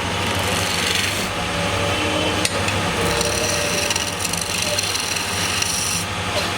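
Wood lathe running with a steady motor hum while a turning tool scrapes and cuts into the spinning wood. There is a single sharp click about two and a half seconds in.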